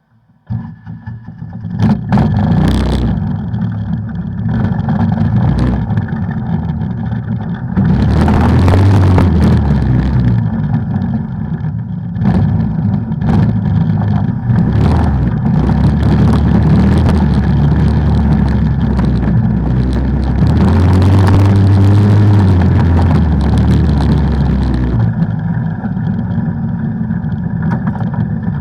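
Off-road vehicle engine running as it is ridden, revving up twice, about eight seconds in and again past twenty seconds, with scattered sharp knocks over a constant rushing noise.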